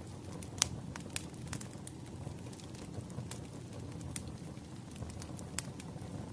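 Wood fire crackling: a steady low rumble of burning logs with irregular sharp pops and snaps, the loudest a little over half a second in.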